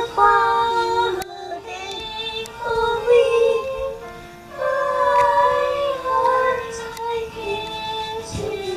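A woman and children singing a slow children's hymn together, with long held notes.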